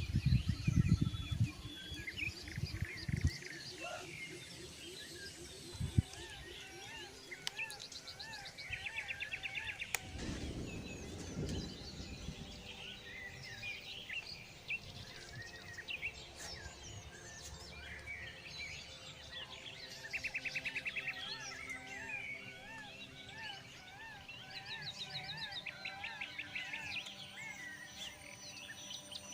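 Several wild birds calling and chirping, with short rapid trills repeating every so often, over a faint rustle of outdoor surroundings. A few louder low knocks and rustles near the start.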